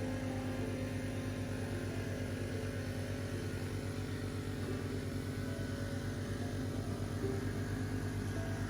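Small engine running steadily at a constant speed, an even mechanical hum.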